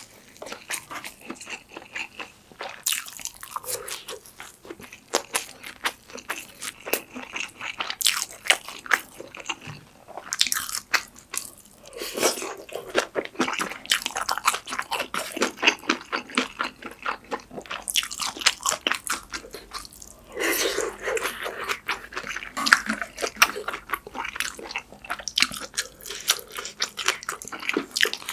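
Close-miked eating sounds: wet chewing, biting and smacking of ramyeon noodles and pork kimchi stew, a dense run of small irregular clicks, busiest about twelve seconds in and again about twenty seconds in.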